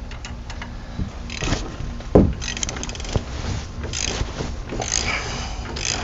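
Hand tools on a truck's tie rod end nut: metal scraping and clicking as a wrench or ratchet works the nut loose, with one sharp metal knock about two seconds in and a quick run of clicks just after.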